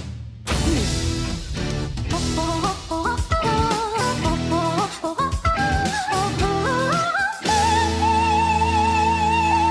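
A boy's singing voice over an electric-guitar backing track, climbing through a fast run of notes, then holding one long high note with vibrato for the last couple of seconds.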